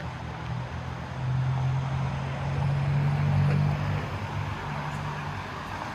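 Street ambience with a motor vehicle's engine humming low and steady close by. It grows louder about a second in and drops back near four seconds.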